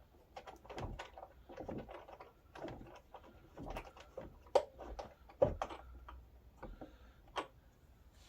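Plastic wrench clicking and knocking against a front wheel nut and the plastic wheel as the nut is tightened, in a string of irregular sharp clicks, the loudest about four and a half and five and a half seconds in.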